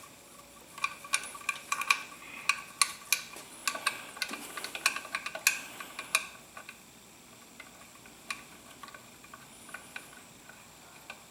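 Metal hand tools clicking and clinking against engine parts, irregular and quick at first, then sparser.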